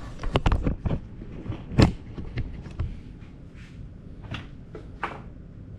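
Clicks and knocks of small plastic and metal parts of a cassette deck being handled and set down: a quick cluster at the start, one louder knock a little under two seconds in, and two sharper clicks near the end.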